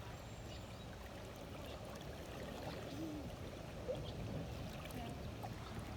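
River water running steadily, an even wash of flowing water.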